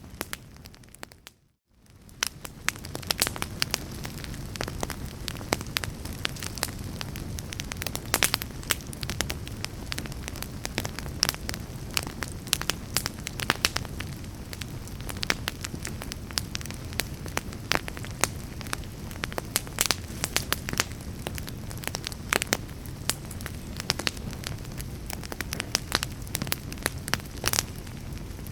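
Wood fire burning in a fireplace: dense, irregular crackles and pops of burning logs over a steady low rumble of flames. About a second in, the sound briefly fades almost to nothing, then returns.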